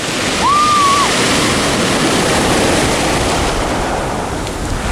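Rough sea surf breaking on a pebble beach, a steady loud rush of waves. A brief high tone sounds about half a second in.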